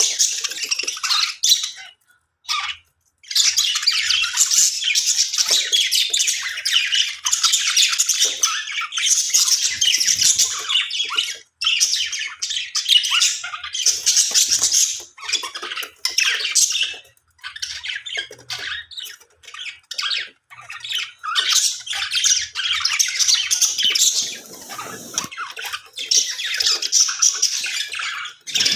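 Pet budgerigars chattering and warbling in a fast, scratchy stream of chirps and squawks, pausing briefly a few times.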